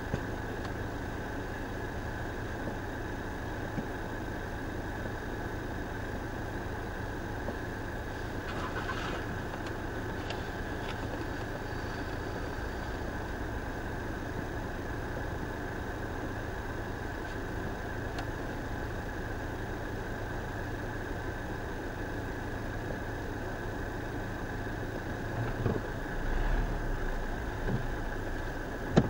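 Car engine idling steadily, heard from inside the cabin. Near the end a louder low rumble lasts a couple of seconds, followed by a short sharp knock.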